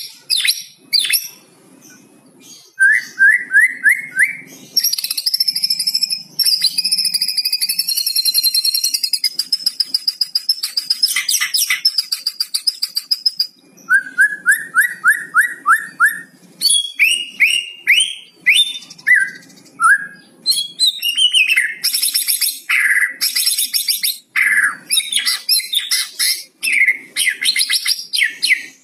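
White-rumped shama (murai batu) singing a varied, loud song full of rapid rattling 'kretekan' phrases. Its song includes quick runs of about half a dozen short rising notes and a long, high, held whistle early on.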